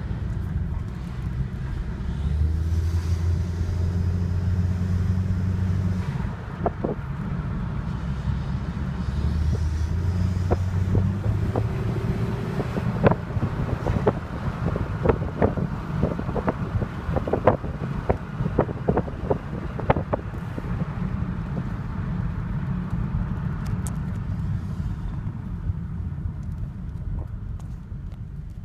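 Saab car running with a steady low rumble. A deeper drone swells in two spells during the first half. Midway comes a run of sharp, irregular knocks and clunks, the odd noises the car is making.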